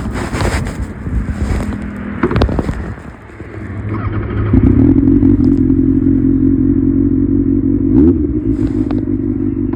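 Kawasaki ZX-6R inline-four engine running. It is rough and clattery with wind noise at first, dips about three seconds in, then settles into a loud, steady note from about halfway, with a brief rise in pitch near the end.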